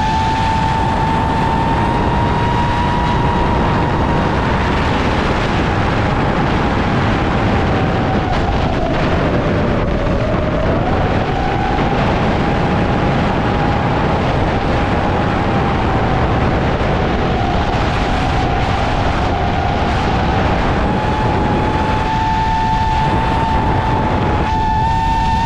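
Brushless motors and propellers of an iFlight Nazgul Evoque FPV quadcopter whining in flight over a steady rushing noise. The pitch holds fairly level, dips about ten seconds in, then climbs back.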